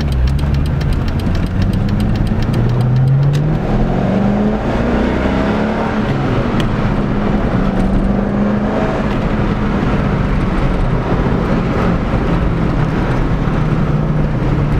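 C5 Corvette's V8 engine under way, the revs climbing over the first few seconds as it accelerates, then running at a fairly steady pitch.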